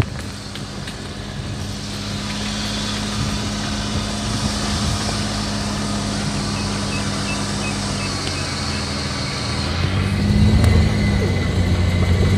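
Small hatchback's engine running, heard from inside the cabin as a steady low hum. About ten seconds in it gets louder, its pitch rising and falling as it is revved.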